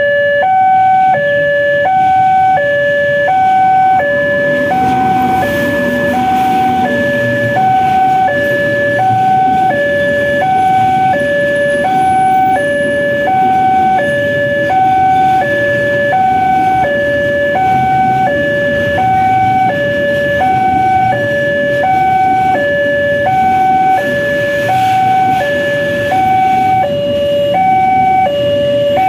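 Electronic warning alarm of a railway level crossing, sounding as two tones that alternate high and low, about two tones a second, without a break. A low rumble runs beneath it.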